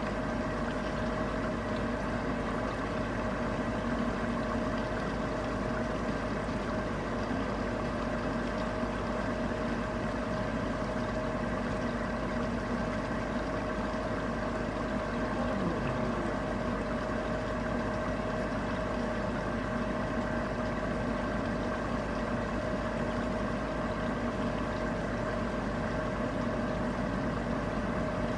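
Steady rain with a constant mechanical hum of several steady tones underneath, unchanging throughout; a faint falling tone passes about halfway through.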